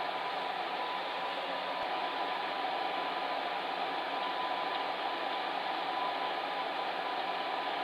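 Electric fan heater running steadily: an even whoosh of blown air with a faint steady hum in it.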